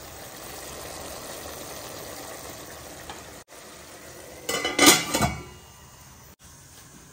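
Pork pieces sizzling as they fry in a nonstick pan, then a stainless steel lid clatters and rattles onto the pan about four and a half seconds in; the sizzle is muffled under the lid afterwards.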